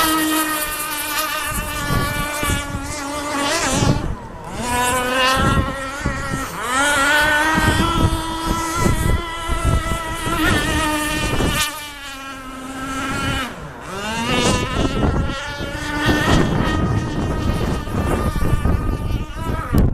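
Radio-controlled racing boat's small high-revving engine, a high-pitched buzz that rises and falls as the throttle is worked, easing off briefly a few times (around 4, 12 and 14 seconds in) before winding up again.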